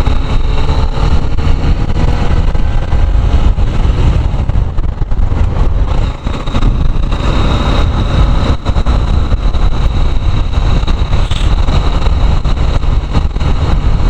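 125cc motorcycle being ridden at highway speed: steady engine running under a constant rush of wind and road noise.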